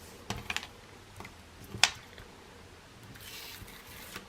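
Card and craft supplies handled on a table: a few light taps and clicks, one sharp click about two seconds in, and a soft rustle of paper a little after three seconds.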